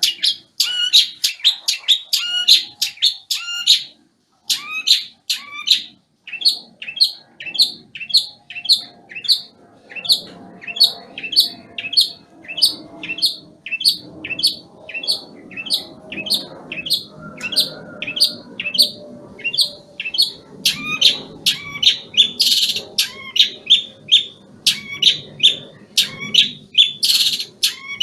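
Long-tailed shrike (cendet, Banyuwangi type) in moult, singing a fast run of short, sharp chirping notes, about three a second. The run has brief breaks about 4 and 6 seconds in.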